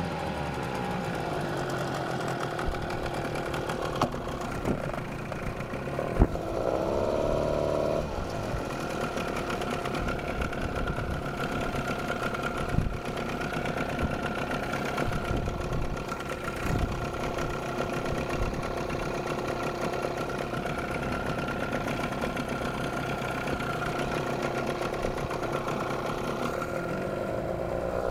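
A 9.8 hp outboard motor idling steadily with a high, steady whistle over the engine note, likened to squealing brakes; there is a short blip of revs about six seconds in. The owner does not know what causes the whistle.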